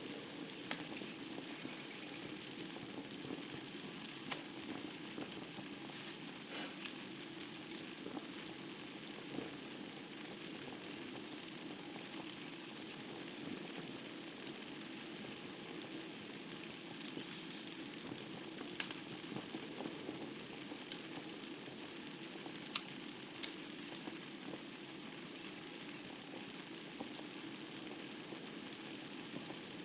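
Wood fire burning in a fireplace: a steady soft hiss with scattered sharp crackles and pops from the burning logs, a few louder pops about eight seconds in and again past the middle.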